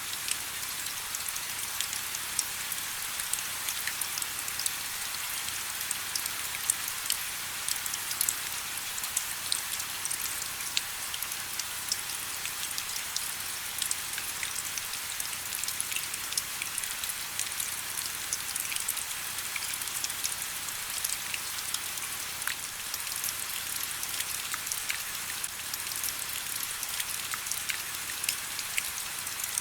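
Steady rain: a continuous high hiss dotted with many small, sharp drop impacts, with no low rumble.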